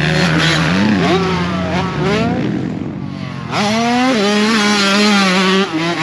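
Motocross dirt bike engine on the track, its pitch rising and falling with throttle and gear changes. It eases off around the three-second mark, then climbs sharply as the throttle is opened again, and holds high.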